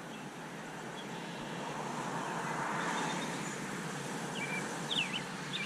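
Electric motor and three-blade propeller of a foam RC J3 Cub flying past, a faint drone that swells about three seconds in and then fades. Birds chirp briefly near the end.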